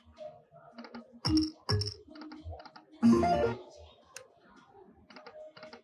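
Lightning Link video slot machine spinning: a run of quick electronic clicks as the reels stop, with a few louder short chime tones about a second in and again around three seconds in.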